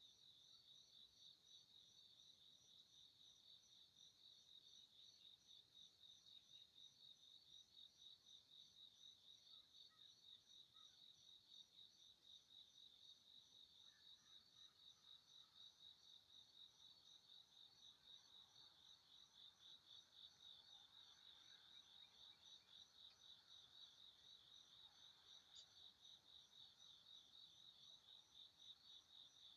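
Faint, steady insect chirping, high-pitched and evenly pulsed without a break.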